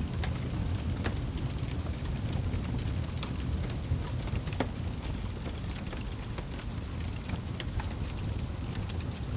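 Wood fire burning in a fireplace: a steady low rumble of flame with irregular sharp crackles and pops from the firewood.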